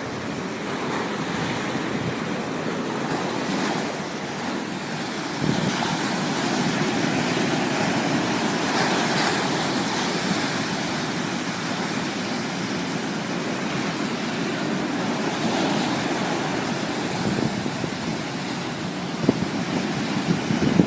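Sea waves washing and breaking in a steady rush, swelling louder about five seconds in.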